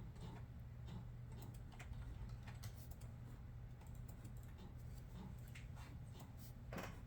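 Typing on a computer keyboard: faint, irregular key clicks over a steady low hum, with one longer, louder noise near the end.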